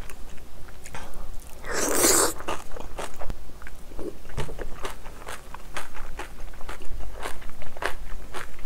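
A mouthful of cabbage kimchi being bitten and chewed: a loud wet crunch about two seconds in, then repeated crunching clicks as it is chewed.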